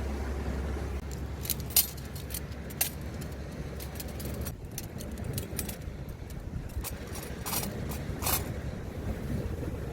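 Small metal objects clinking and rattling as they are handled, in many separate sharp clicks starting about a second in, over a steady low rumble of wind and surf.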